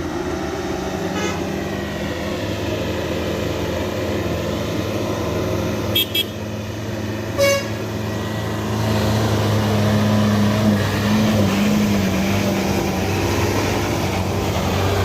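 A heavy vehicle's engine running steadily, growing louder about nine seconds in, with two quick horn toots about six seconds in and another short toot a second or so later.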